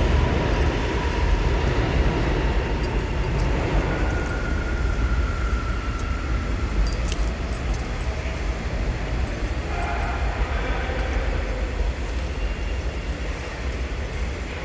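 Subway train running, heard from inside the car: a steady low rumble with light rattling and scattered clicks.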